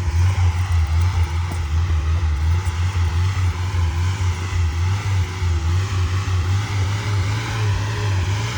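Mazda B2000 pickup's engine running steadily with a low rumble.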